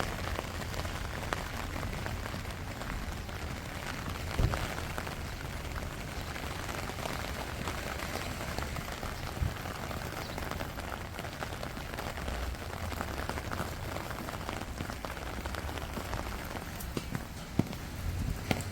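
Steady rain falling, a dense patter of drops with a few louder single knocks, the most prominent about four and a half seconds in.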